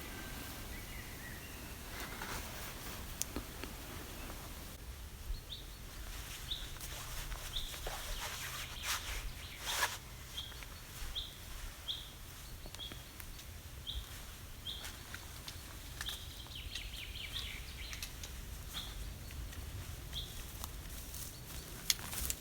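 A small songbird repeating a short, high call about once a second, over faint rustling and scattered sharp knocks, one louder knock about halfway through.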